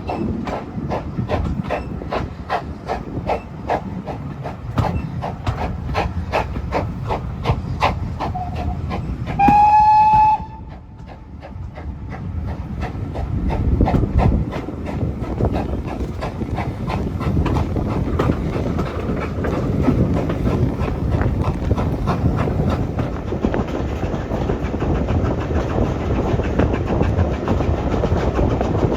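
Heritage steam train running, with an even beat of about three strokes a second. About ten seconds in the locomotive's whistle gives one short blast, after which the beat gives way to a steady running noise.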